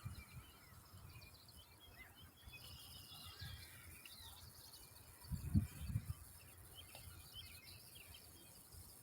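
Faint outdoor ambience with birds chirping, and a brief low thump about five and a half seconds in.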